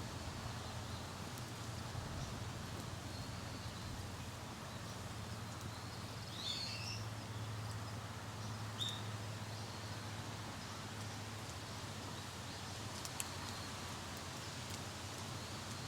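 Woodland ambience: a steady low background hum under a soft even hiss, with a few short bird chirps about six and nine seconds in.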